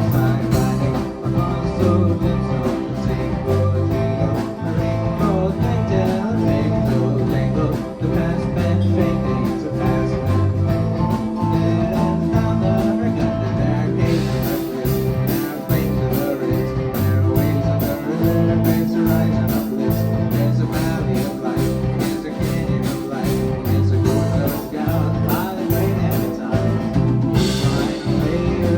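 Live band playing a song with a steady beat, which gets brighter and busier about halfway through.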